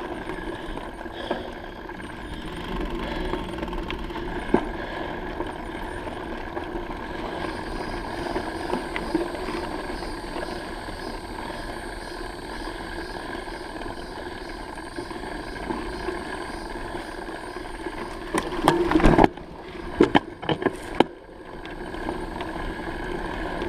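Bicycle riding noise: a steady hum of tyres and drivetrain with wind on the microphone, broken by a short cluster of loud knocks and rattles about three-quarters of the way through.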